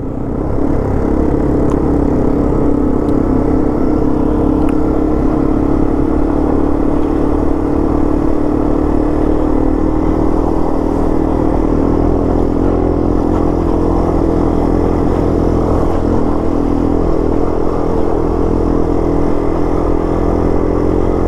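Yamaha TW200's single-cylinder four-stroke engine running at steady revs while riding.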